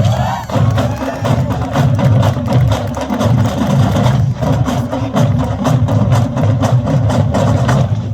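Marching band percussion playing a fast rhythmic pattern of drum and rim or stick hits over a heavy low drum sound.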